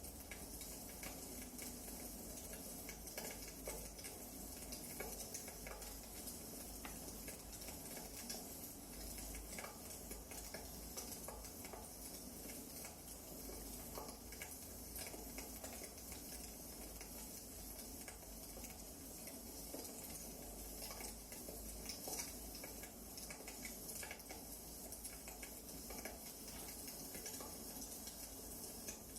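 Wood fire crackling in a fireplace: a steady hiss scattered with small irregular pops and snaps of burning firewood.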